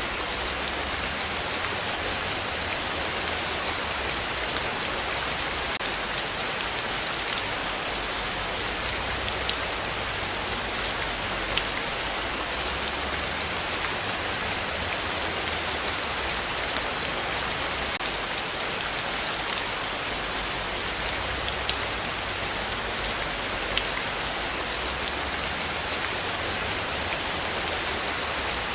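Heavy rain falling steadily, a dense continuous hiss dotted with sharp ticks of single drops striking close by.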